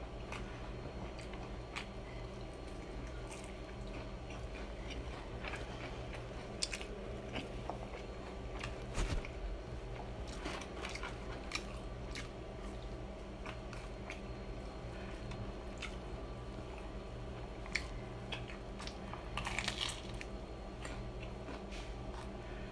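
Close-up chewing and biting of crispy fried chicken: wet mouth sounds broken by scattered crunches of the crust, over a faint steady hum. The loudest crunches come about nine seconds in and in a cluster near the end.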